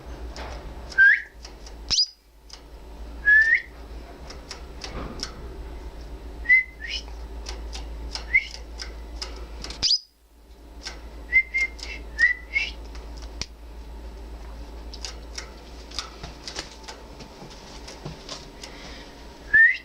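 Orange factor canary giving short, single tweet calls, each a quick upward chirp, about a dozen scattered irregularly with gaps of one to several seconds, rather than full song.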